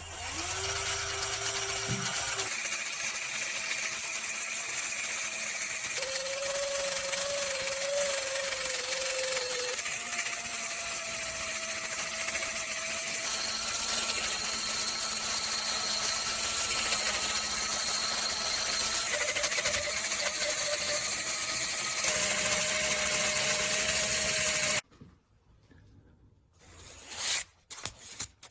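A power tool spinning a wire brush against a rusty cast-iron kettlebell, derusting it: a steady motor whine over a harsh scrubbing hiss, with the pitch jumping to a new level several times. It stops abruptly a few seconds before the end, and short scraping sounds follow.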